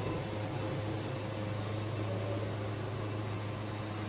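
Wood-Mizer LT70 band sawmill running with a steady, even hum and no change in pitch.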